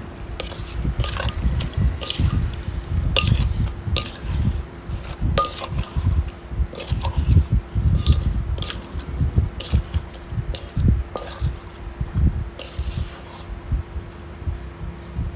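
Irregular wet squishing and dripping of a saucy seafood salad in its liquid dressing.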